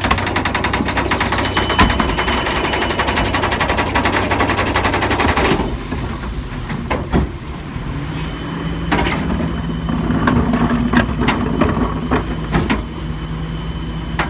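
Garbage truck working a pickup: for about the first five seconds a rapid, rattling clatter with thin high whines over the engine, which cuts off suddenly. The engine then runs more steadily, with scattered clanks and knocks.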